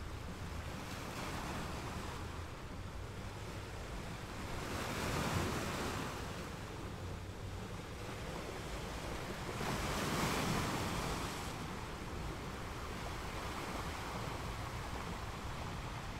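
Sea waves breaking on a shore, with two larger waves surging in, one about five seconds in and one about ten seconds in, over a steady wash of surf.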